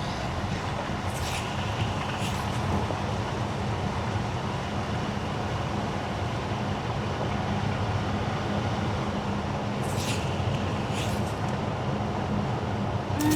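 Car driving on wet winter asphalt: a steady low rumble of engine and road with tyre hiss. Short hissing sweeps come twice about a second apart near the start and twice again near the end.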